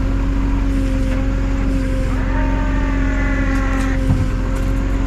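Tow truck engine running steadily with its power take-off engaged for winching, with a steady whine over the rumble. About two seconds in, a second, higher whine joins for a couple of seconds.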